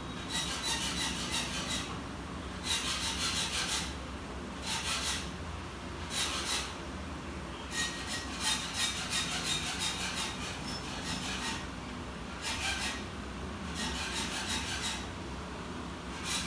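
Repeated bursts of scratchy rubbing on a hard surface, about eight of them, each up to a couple of seconds long with rapid fine ticks inside, over a steady low hum.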